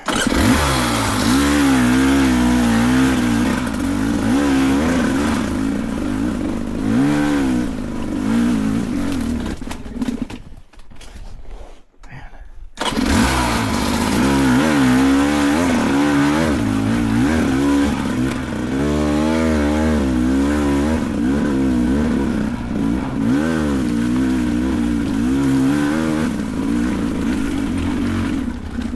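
Beta 300 Race two-stroke dirt bike engine, its revs rising and falling over and over under short throttle bursts on a steep, rough climb. Near the middle it drops away for about two seconds, then comes back suddenly.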